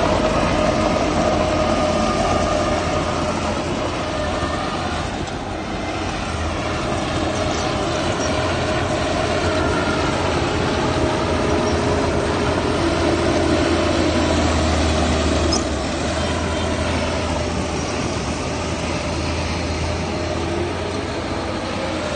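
Heavy diesel machinery running steadily under load, with a steady low engine hum and a faint whining tone above it.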